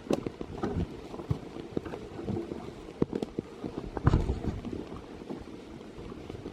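Rustling and knocking of gear and wet clothing handled by someone on the move, with irregular sharp clicks over a steady background hiss and a heavy low thump about four seconds in.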